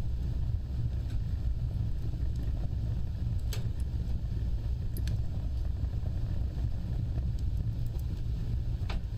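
Wood fire burning with a steady low rumble of flames and occasional sharp crackles, the clearest about three and a half, five and nine seconds in.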